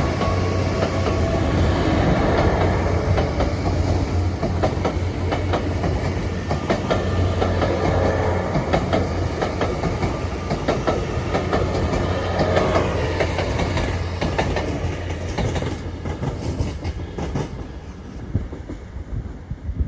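Great Western Railway train pulling out of the station: a steady low engine drone with wheels clattering over rail joints and points, fading away over the last few seconds as it leaves.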